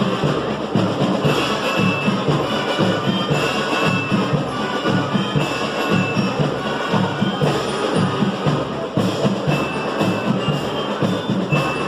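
Marching band playing: drums keep a fast, steady beat, with short high melody notes over it.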